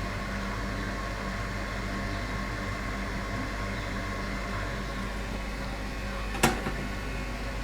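Steady fan-like whir over a low electrical hum, with one sharp click about six and a half seconds in.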